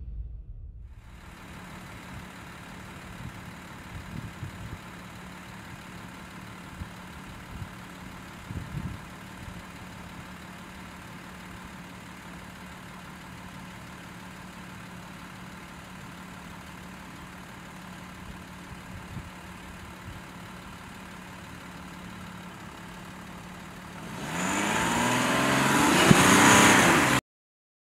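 Audi Q7 SUV's engine idling steadily, then revving up hard near the end as the car pulls away on snow, its pitch rising, before the sound cuts off suddenly.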